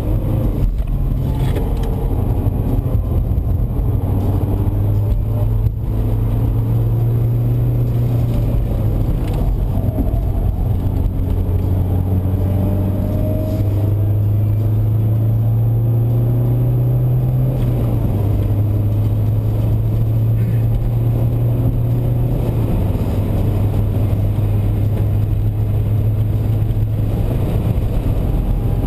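Inside the cabin of a BMW 123d with its twin-turbo four-cylinder diesel pulling hard at track speed, mixed with steady road and wind noise. The engine note climbs and drops back in steps several times as the car works through the gears.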